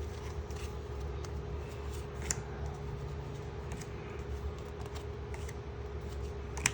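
Pokémon trading cards being handled and flipped through, with scattered small clicks and rustles over a steady low hum.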